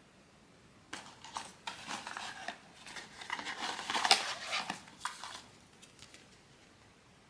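Blind-box packaging being handled, with irregular crinkling and rustling and sharp clicks for about four seconds, loudest near the middle.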